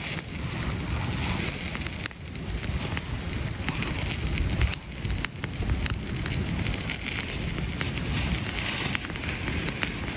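Wood campfire crackling, with scattered sharp pops over a steady hiss, and wind rumbling on the microphone.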